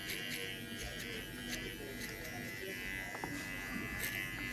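TPOB GO electric hair clippers running with a steady buzz while cutting hair.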